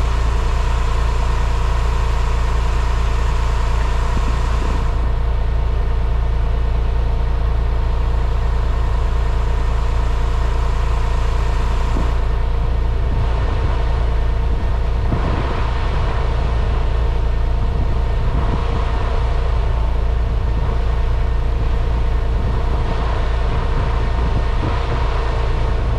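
2000 Porsche 911's flat-six engine idling steadily after a cold start.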